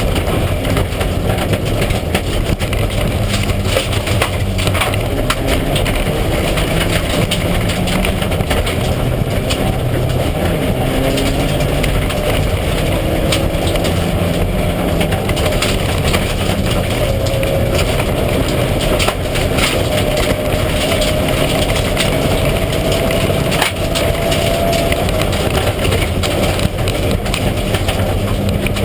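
Mitsubishi Lancer Evolution IX rally car's turbocharged four-cylinder engine running hard, its pitch rising and falling with the throttle and gear changes, over a constant crackling clatter.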